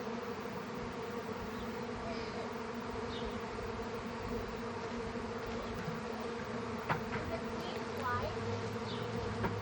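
Honeybee swarm buzzing around a hive box: a steady low hum with a clear pitch as the bees settle in and fan at the entrance.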